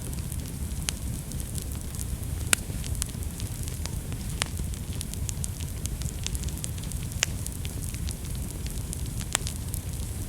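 Fire burning in a fireplace: a steady low rumble of flames with frequent sharp crackles and pops, a few of them louder than the rest.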